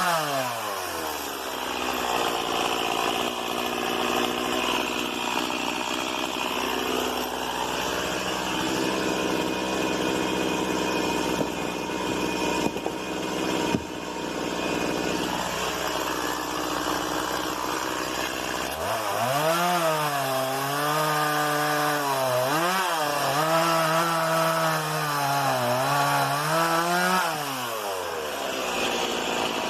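Stihl MS 170 small two-stroke chainsaw cutting wood. The engine pitch drops as the chain bites in, and the saw works under load for most of the stretch. Later it runs with a clear pitch that wavers up and down for several seconds, then falls off near the end.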